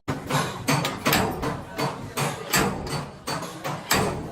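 Hammer striking sheet-metal car bodywork in a quick, uneven series of blows, about three a second: panel beating on a damaged body panel.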